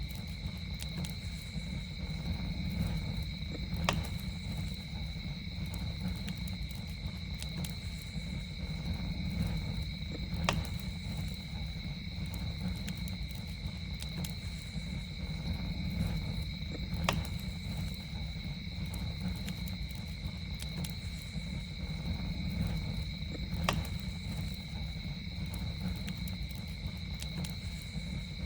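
Campfire burning with a low rumble, fine crackling and a sharp pop about every six to seven seconds. Under it runs an unbroken high-pitched insect trill like crickets.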